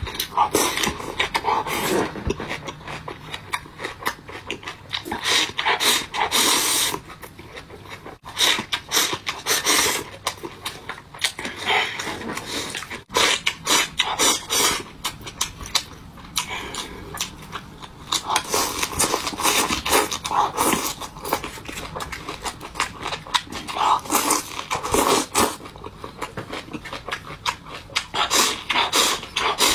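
Close-up eating sounds: chewing, crunching and slurping of sorghum rice in cold water and soy-sauce-dressed vegetables, in a dense irregular run with brief pauses.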